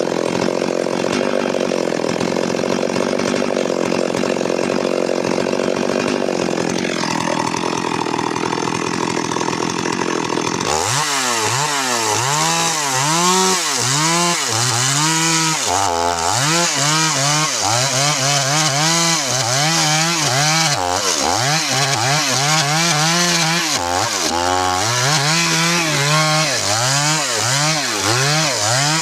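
Stihl MS 382 two-stroke chainsaw running at high revs, its pitch dipping briefly about seven seconds in. About ten seconds in the sound changes abruptly, and the engine then rises and falls in pitch over and over, roughly once a second, to the end.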